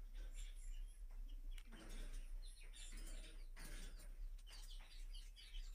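A flock of caged budgerigars chirping, faint, with many short high chirps following one another in quick succession.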